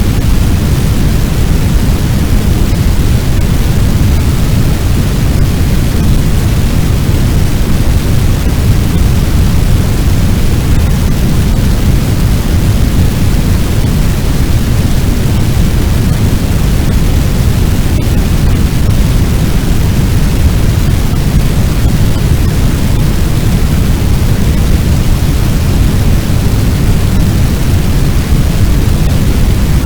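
Fire sound effect: a loud, steady, low rumbling roar of a large blaze, with no distinct crackles and no change in level.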